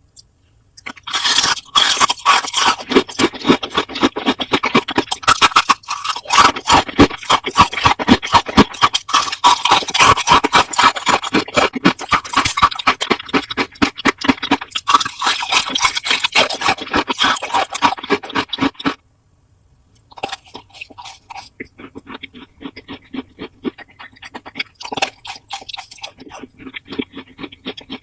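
Rapid, loud crunching and scraping close to the microphone; it breaks off for about a second some nineteen seconds in, then goes on more quietly.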